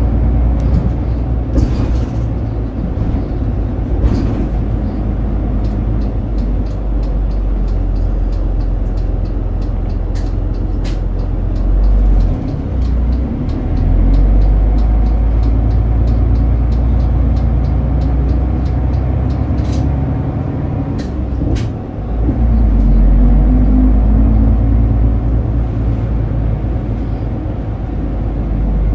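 Route bus diesel engine and running noise heard from inside the cabin as the bus drives. There is a steady low rumble whose note shifts, with two brief drops about 12 and 22 seconds in, and scattered clicks and rattles throughout.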